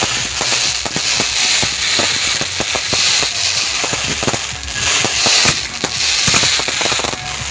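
Fireworks display going off continuously: a dense crackle of small reports with many sharp bangs, several a second.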